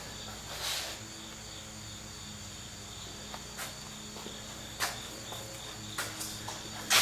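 A steady, high-pitched insect trill like crickets chirring, over a low steady hum, with a few light knocks and clicks.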